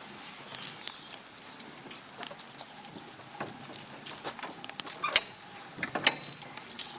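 Rain pattering and dripping in irregular light ticks over a steady faint hiss, with two sharper knocks about five and six seconds in.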